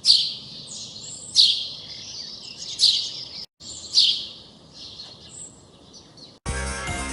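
A songbird singing, with short bright chirping phrases repeated about every one and a half seconds. Music starts abruptly near the end.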